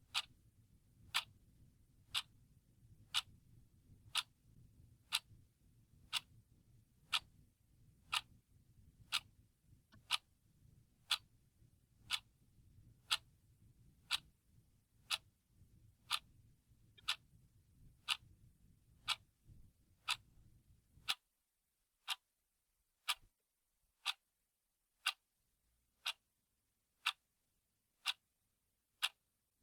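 Analog clock ticking steadily, one tick a second, over a faint low hum that cuts off about two-thirds of the way through.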